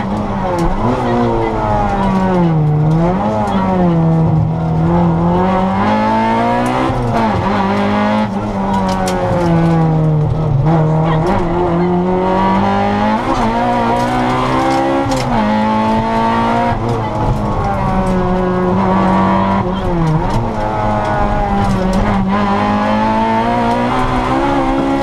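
Honda Integra rally car's four-cylinder engine heard from inside the cabin, driven hard on a stage. The revs climb and fall over and over as the driver accelerates, shifts and lifts for corners.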